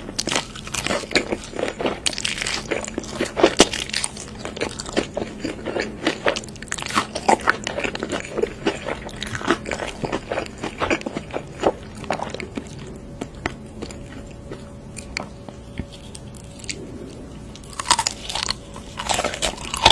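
Close-miked biting and chewing of crunchy food: crisp crunches come thick and fast, thin out about two thirds of the way through, then a few sharp crunches return near the end.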